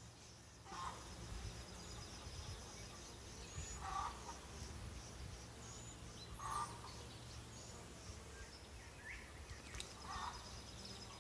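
A bird calling four times, one short call about every three seconds, over a steady high drone of insects.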